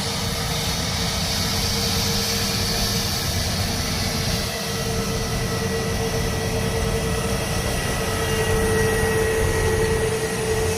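IndiGo Airbus A321's jet engines running: a steady, loud roar with a constant whine held throughout.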